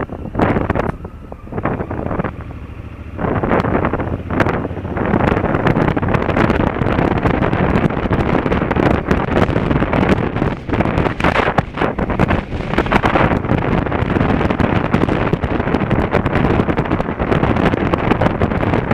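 Wind rushing and buffeting over an action camera's microphone on a moving Honda Africa Twin CRF1000L motorcycle, mixed with the bike's running noise. It dips briefly about one to three seconds in, then holds steady.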